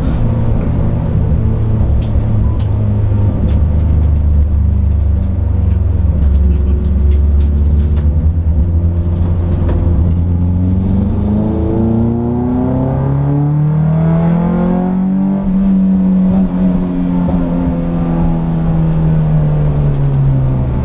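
Peugeot 206 S16's 2.0-litre 16-valve four-cylinder engine heard from inside the cabin at track speed: a steady low drone for about ten seconds, then the revs climb for a few seconds under acceleration, hold with a slow sag, and drop near the end.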